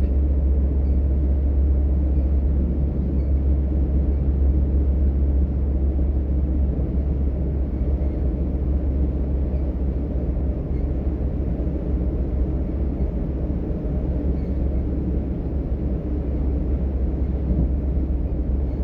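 DB Class 425 electric multiple unit heard from inside the passenger cabin while running at steady speed: a continuous low rumble from the running gear and the track.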